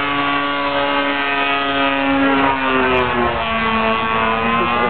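A DLE-30 single-cylinder two-stroke gas engine on an RC plane, swinging an 18x8 wooden propeller, running steadily in flight. Its pitch drops about halfway through and climbs again near the end.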